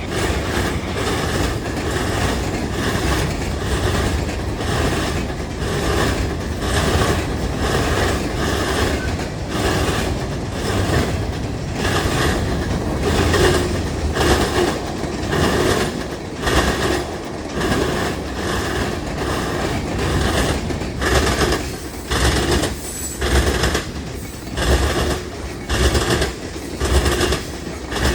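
Freight cars of a CSX mixed freight train rolling past, their wheels clacking over the rail joints over a continuous rumble. Toward the end the clacks come in regular pulses about once a second.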